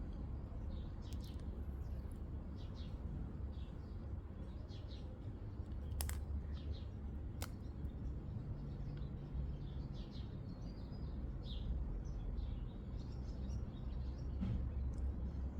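Small birds chirping in short, repeated calls over a low steady rumble, with two sharp clicks about a second and a half apart near the middle.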